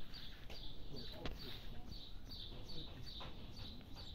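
A bird calling: one short, high chirp repeated steadily, a little more than two a second.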